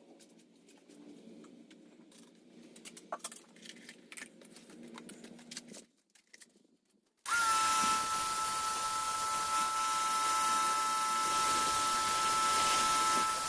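Faint clicks and handling noises, then a brief near-silence. About seven seconds in, a motor-driven machine starts up and runs at a steady high whine over a loud, even hiss.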